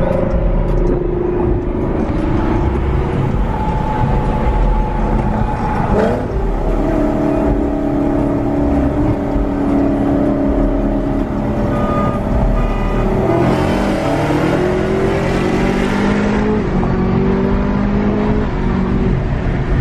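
Chevrolet Camaro ZL1's supercharged V8 heard from inside the car, cruising at a steady pitch, then revving up through the gears: the pitch climbs in steps with short drops at each upshift in the last third.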